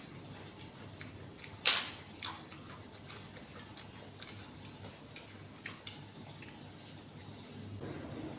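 Crunchy kerupuk crackers bitten and chewed close to the microphone: two loud crunches about two seconds in, then softer crackles and clicks.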